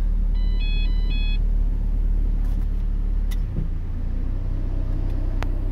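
Ford Transit refrigerator van idling with a steady low drone. A short run of electronic beeps at stepping pitches comes in the first second or so. About three and a half seconds in, the drone shifts pitch as the load changes, the refrigeration unit in the back switching on.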